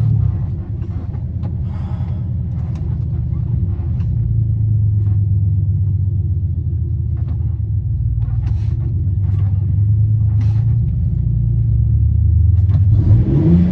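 A pickup's stock 4.3 V6 engine running steadily at low revs, growing slightly louder, then revving up about a second before the end.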